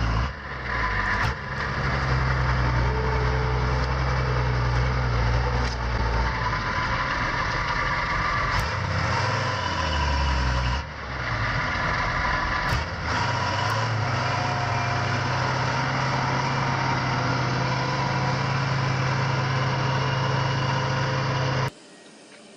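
Heavy truck engine running steadily at low revs with a deep hum, the sound dropping away suddenly near the end.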